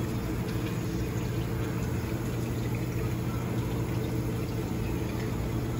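Water pump running with a steady low hum while water pours and circulates, as in a minnow bait tank.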